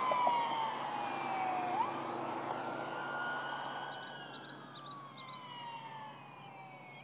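Police car siren in a slow wail, its pitch falling gradually, sweeping back up about two seconds in, then falling again while growing steadily fainter.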